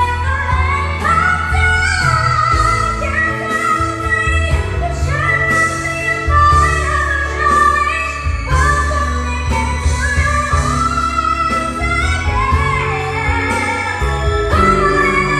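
A solo voice sings a slow pop ballad over a backing track with a heavy, steady bass. The melody glides between long held notes.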